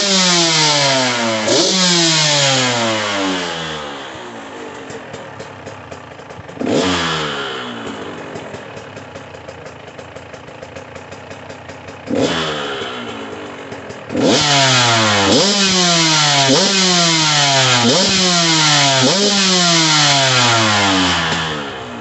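KTM 125 SX single-cylinder two-stroke engine on its stock exhaust, running loud and revved in sharp throttle blips that each fall back toward idle: two near the start, single blips about seven and twelve seconds in, then a quick run of about six in a row.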